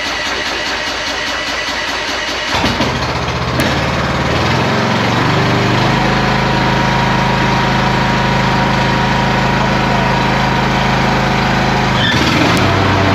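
Gasoline riding lawn mower engine being started: the starter cranks with an even rhythm, the engine catches about two and a half seconds in and settles into steady running, then speeds up near the end.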